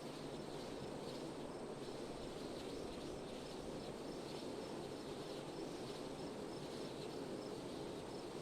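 Steady wind blowing evenly, with insects chirping faintly in a regular rhythm over it.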